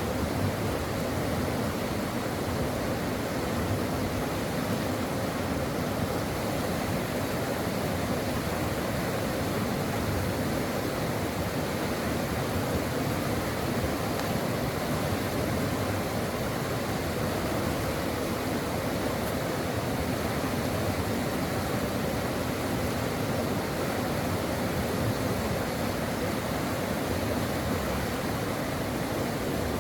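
Stream water flowing over rocks in a steady, even rush.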